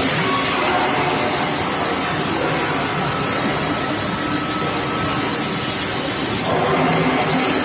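Steady industrial machinery noise from an induction heating line for steel tube running: a constant, even din with faint steady tones in it.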